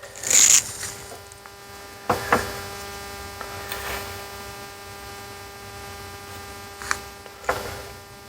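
Steady electrical hum with many even overtones. A short burst of hiss comes about half a second in, and a few light clicks and knocks fall through it.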